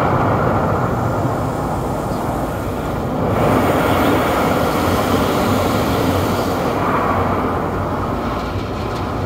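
Automatic car wash's rotating brushes scrubbing over the car's roof, heard from inside the cabin as a loud, steady, low-heavy noise. A higher hiss joins for a few seconds in the middle.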